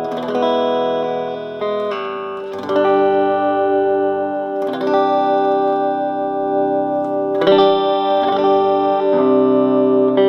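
Gibson Les Paul Studio electric guitar played through the clean channel of a Round Digital Sound GX-25 25-watt amp with a 10-inch speaker, bass, mids and treble all at the midpoint. Chords are struck and left to ring, changing about six times, each held for one to three seconds.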